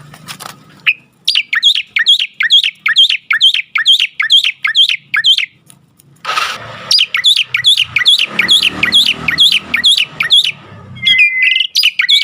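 Myna calling in fast runs of repeated sharp chirps, about four a second, broken by a short rustling burst midway; near the end a steady whistled note comes in.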